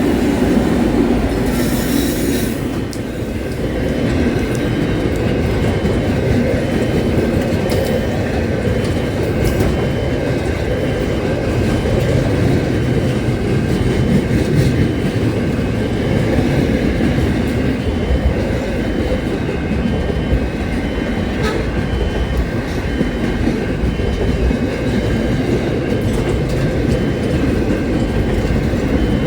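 A train running along the track with a steady, dense rumble and a faint steady whine above it. A brief hiss comes about two seconds in.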